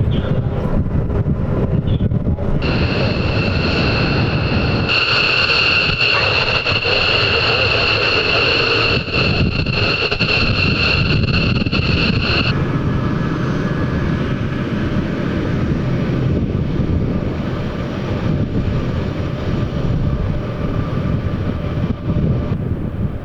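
Military jet engines running loud and steady: a deep rumble with a high turbine whine over it. The whine drops away abruptly about halfway through while the rumble goes on.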